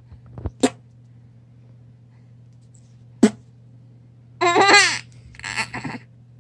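A few sharp clicking pops, mouth noises made to amuse a baby, then a baby laughing: a squealing, pitched laugh about four and a half seconds in, followed by a shorter breathy laugh.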